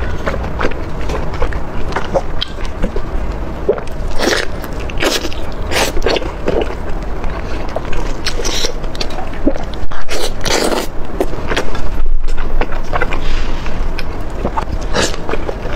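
Close-miked eating: wet, sticky chewing and biting of soft, sauce-coated food, with many irregular mouth clicks.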